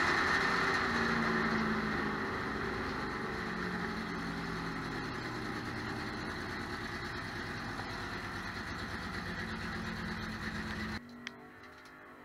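Drag race car engine running at low speed, heard from inside the cockpit, slowly getting quieter as the car rolls along. It stops abruptly about eleven seconds in, followed by a single brief click.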